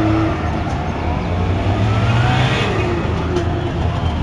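Several Goggomobil microcars driving slowly past, their small air-cooled two-stroke twin engines running together. One engine rises in pitch about halfway through as it pulls past.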